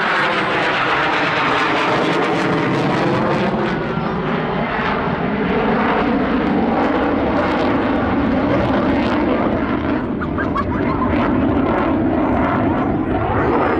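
Eurofighter Typhoon's twin jet engines running at display power as it rolls past, a loud continuous jet noise with a sweeping, phasing tone that changes as the aircraft moves.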